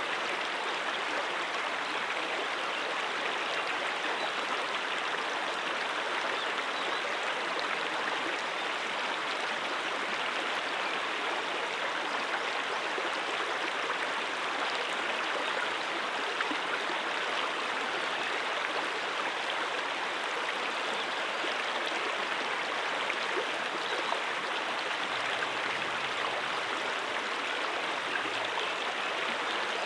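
Stream water running steadily over rocks, an even rushing splash with no breaks.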